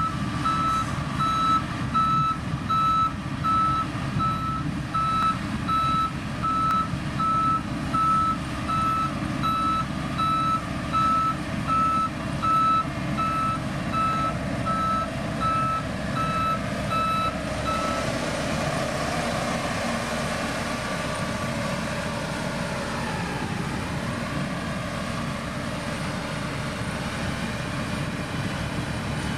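Motor grader's diesel engine running under a steady on-off reversing alarm, beeping about one and a half times a second while the machine backs up. About two-thirds of the way through the beeping stops and the engine runs on alone.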